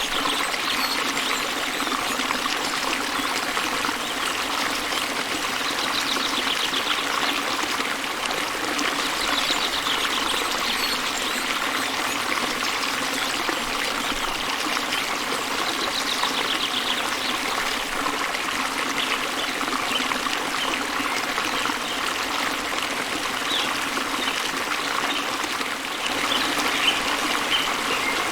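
Small waterfall and river water flowing and splashing steadily, with a bird singing a short faint trill every few seconds.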